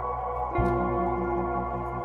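Soft ambient background music: sustained synthesizer pads, with a new chord coming in about half a second in over a gently pulsing low note.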